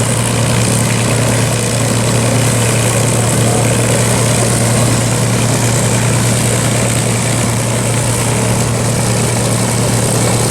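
A P-51 Mustang's V-12 piston engine idling steadily on the ground with a deep, even hum, its propeller turning.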